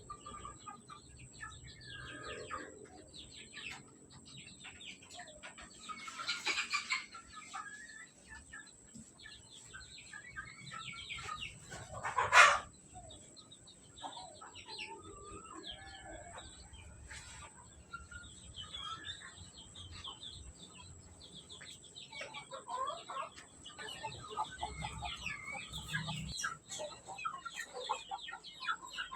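Free-range village chickens clucking at feeding, with many short calls overlapping. There is a louder scuffle about six seconds in, and one loud sharp sound about twelve seconds in.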